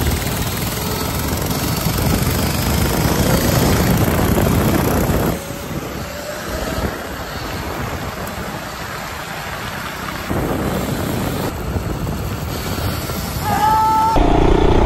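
The FRP GMB100 mini bike's 99cc four-stroke engine running under way on the street. The sound drops in level about five seconds in and picks up again around ten seconds.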